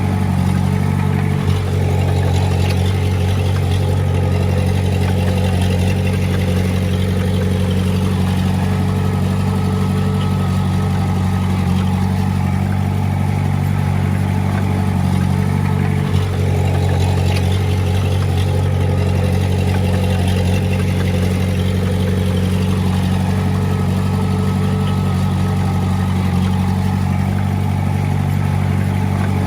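Komatsu D20A bulldozer's diesel engine running steadily at constant speed, a deep even drone that hardly changes in pitch.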